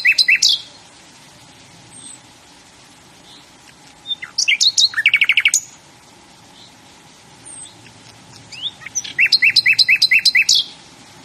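A songbird singing short, repeated songs, each a few rising notes followed by a quick run of repeated notes. One song ends just after the start, and two more follow about four to five seconds apart.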